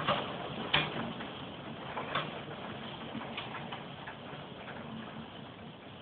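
Rain during a thunderstorm: a steady hiss with irregular drops ticking and tapping on a hard surface, the sharpest ticks near the start.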